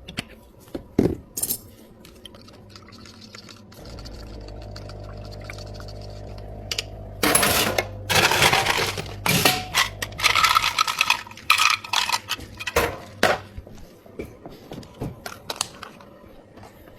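Drink-making clatter behind a bubble tea counter. A few sharp clicks come first, then a machine hums steadily for about three seconds. After that comes a loud run of rattling and clinking from cups, ice and utensils, easing into scattered small knocks near the end.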